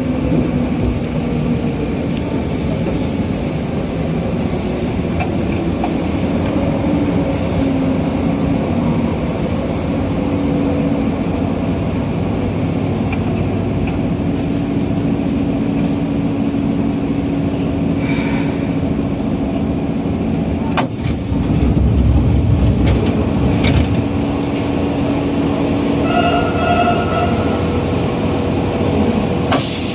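Running noise of a Nagoya subway Tsurumai Line 3000 series train heard from inside the car in a tunnel: a steady rumble of wheels and motors with a constant hum from the traction equipment. A sharp click about two-thirds through is followed by a louder low rumble, and a brief high tone sounds near the end.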